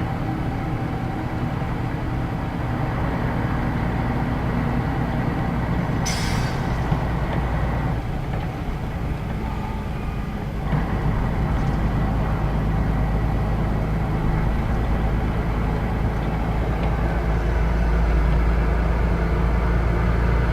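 Scania K113 bus's diesel engine running under way, with a short hiss of compressed air about six seconds in. The engine sound drops back for a couple of seconds, then pulls again from about eleven seconds in, getting louder toward the end.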